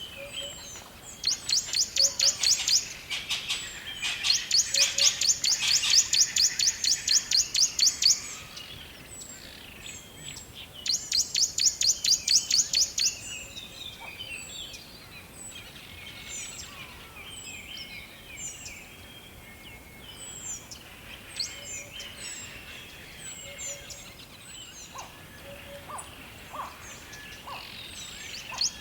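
Forest birds calling: a fast, even, high trill of about seven or eight notes a second, sung in three runs of a few seconds each in the first half, over many short scattered chirps from other birds.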